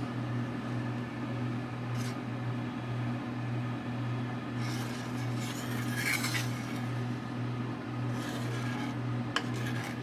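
Spoon scraping and stirring thickening cheese sauce in a pan, in stretches of a second or two, keeping the cheese from sticking to the bottom. A steady low hum runs underneath.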